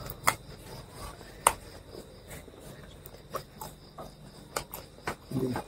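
A man eating fried chicken close to the microphone: sharp, irregular wet clicks and crunches of biting and chewing, with a brief low murmur near the end.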